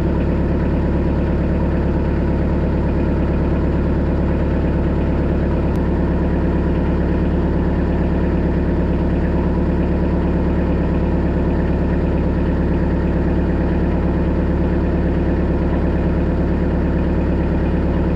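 Kubota B3000 tractor's three-cylinder diesel engine running steadily at an even speed.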